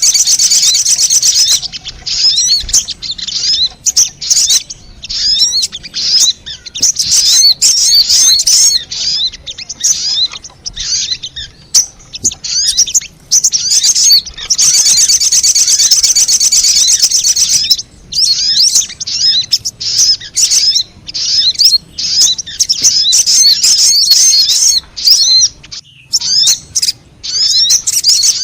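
Lure recording of sogon song: fast, high-pitched chirps and twittering trills in quick bursts. Two long, dense buzzing trills, one at the start and one about halfway through, are the loudest parts.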